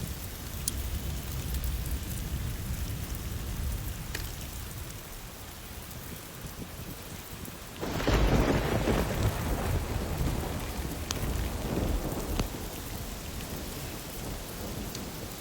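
Steady rain falling, with a sudden clap of thunder about halfway through that rumbles on for several seconds before fading back into the rain.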